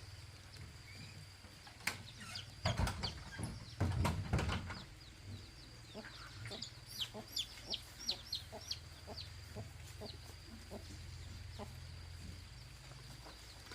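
A few loud knocks, then a quick run of short, high, falling bird chirps, over a faint steady high whine.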